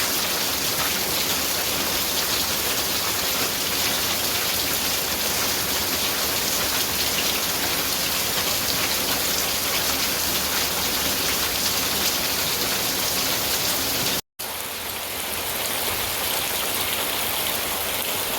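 Steady rain falling and pattering on surfaces. It cuts out for a split second about three-quarters of the way through.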